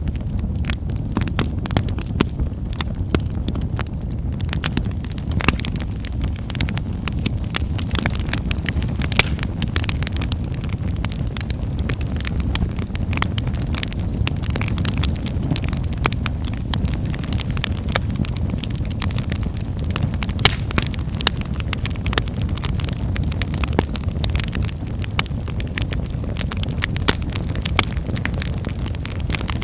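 Wood fire in a fireplace crackling, many sharp pops and snaps scattered over a steady low rumble of burning.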